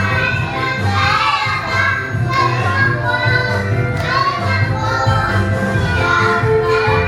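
Young children singing together over a recorded backing track with a steady low beat.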